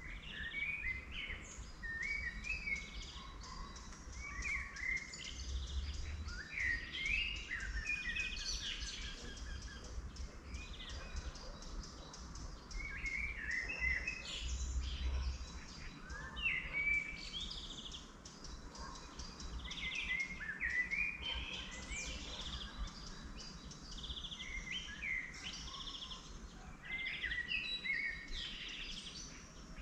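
Several songbirds singing at once, short repeated phrases of trills and chirps overlapping throughout. A steady low rumble runs underneath and swells briefly twice.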